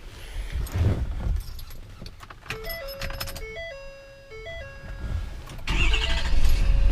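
Keys jangle in the ignition of a 2012 Ford F350's cab, then the dashboard plays a repeating electronic chime tune of stepped tones at key-on. Near the end the 6.7L Power Stroke diesel cranks and starts with a sudden loud low rumble, and the chime keeps sounding over it.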